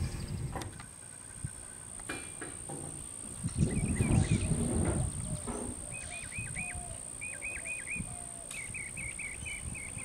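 A bird calling in three quick series of four or five short notes in the second half, over a steady high-pitched whine and some low rumbling about four seconds in.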